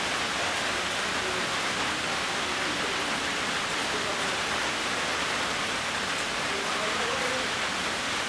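Steady rain, an even hiss of falling water that neither builds nor breaks.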